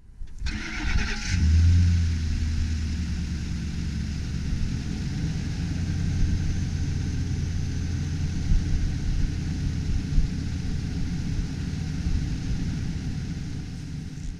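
2008 Ford F350 Super Duty truck engine cranked by the starter for about a second, catching, revving up briefly and settling into a steady idle.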